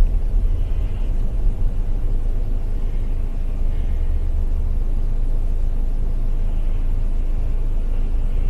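Steady low rumble of a car on the move: engine and road noise as a dashcam picks it up.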